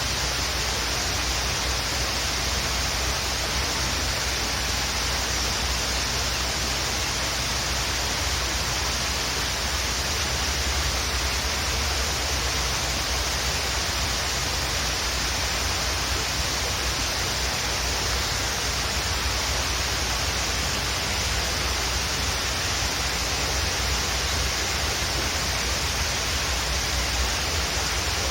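Waterfall rushing steadily, an even hiss of falling water over a low rumble.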